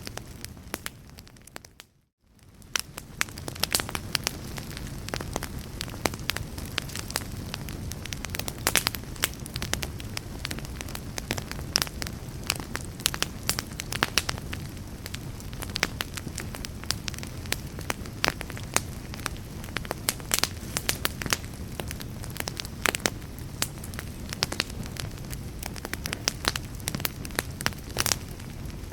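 Fire crackling: a dense, irregular stream of sharp pops and snaps over a steady low rumble of flames. About two seconds in the sound fades out to a moment of near silence, then fades back in.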